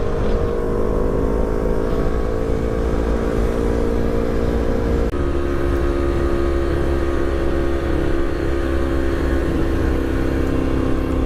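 Motorcycle engine running under way, its pitch climbing slowly as it pulls. About five seconds in there is a brief cut and the pitch drops, as at an upshift, then it climbs slowly again.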